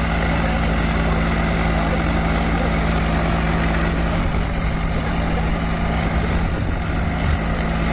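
Swaraj tractor diesel engine running steadily, a low, even drone.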